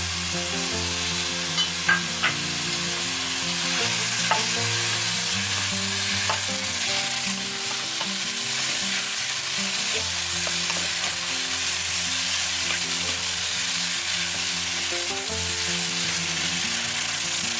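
Sliced eggplant sizzling in hot oil and garlic in a nonstick wok, stirred and tossed with silicone and wooden spatulas. A few sharp clicks of the spatulas against the pan come about two seconds in.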